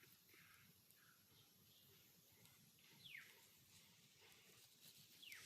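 Near silence, with a faint high chirp falling in pitch heard twice, about two seconds apart: a bird calling.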